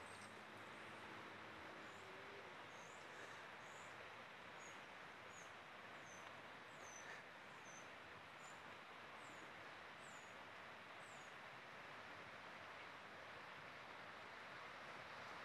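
A small songbird chirping: short, high, falling notes repeated a little more than once a second, stopping about eleven seconds in. They sit over a faint, steady hiss.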